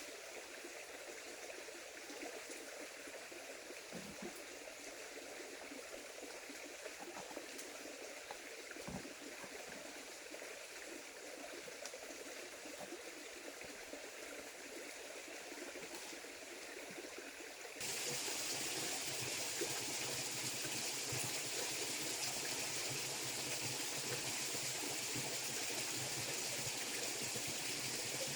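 Steady running water, like a stream flowing. About 18 seconds in it abruptly becomes louder and fuller.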